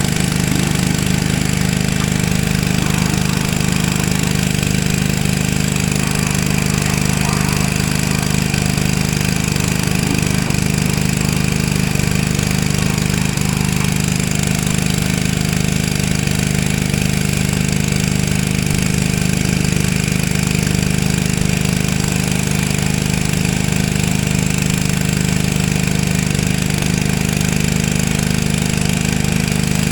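Pressure washer's engine running steadily at constant speed.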